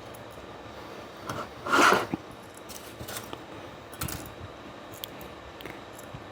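Small metal parts being handled during an automatic transmission clutch-drum rebuild: light clicks as return springs are set in around the piston, with one brief louder clatter a little under two seconds in.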